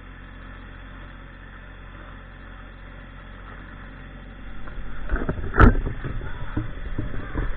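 Tractor engine running steadily, then louder from about four and a half seconds with a series of knocks and clunks and one sharp crack about five and a half seconds in, as snow and ice are worked loose.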